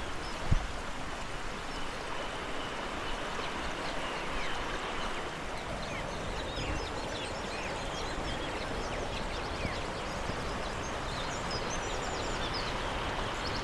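Steady rush of flowing stream water, with small birds chirping over it and short high sweeping notes and quick trills scattered through the middle.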